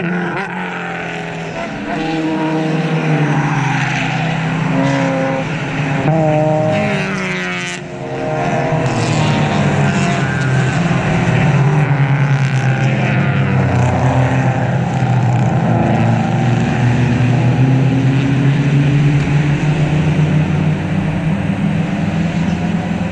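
A pack of club race cars passing at racing speed, several engines at high revs overlapping, with pitches gliding as cars go by. The sound dips briefly about eight seconds in, then a steady drone of more engines follows as the field keeps streaming past.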